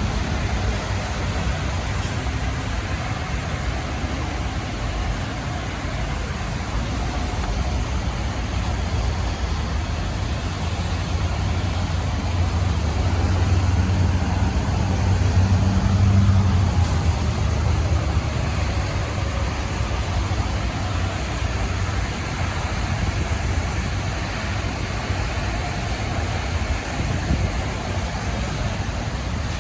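A vehicle engine running with a steady low rumble, growing louder for a few seconds in the middle and then easing back.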